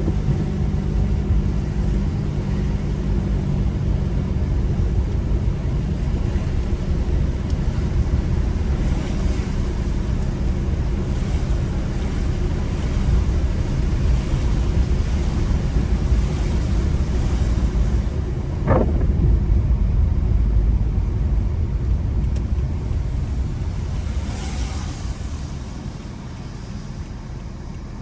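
Car driving on a wet road: a steady rumble of tyres and engine with tyre-spray hiss. There is a short squeak about two-thirds through and a brief hiss a few seconds later, and the rumble eases near the end as the car slows.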